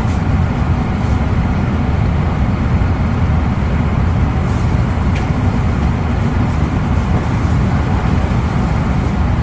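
Steady low rumble of a moving E259 series electric train, heard inside the passenger cabin of a motor car: wheels and running gear on the track at speed, with a couple of faint ticks.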